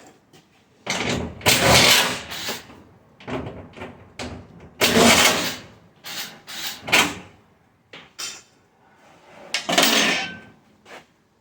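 Stainless steel dishwasher parts being handled: a series of separate clattering, scraping metal knocks and slides, the loudest coming about two, five and ten seconds in.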